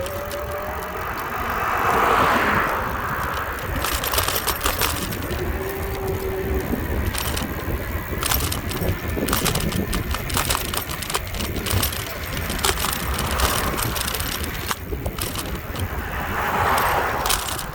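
Wind rumbling on the microphone while riding a bicycle along a road, with scattered clicks and rattles. A car passes about two seconds in and another near the end.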